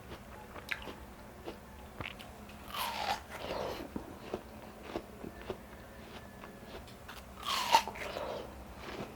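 A person biting into and chewing watermelon close to the microphone, with small wet chewing clicks throughout. Two louder bites come about three seconds in and near the end, each sweeping downward in pitch.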